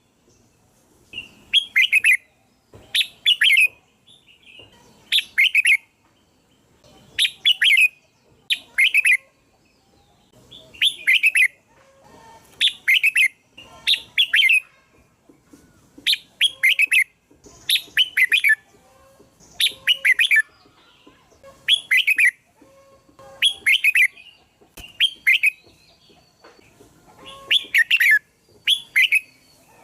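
Red-whiskered bulbul singing: short whistled phrases, one every second or two, with brief pauses between them.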